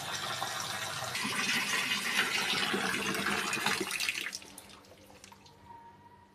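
Water running and splashing into a basin where doormats are being put to soak, louder for a few seconds and then stopping suddenly about four seconds in.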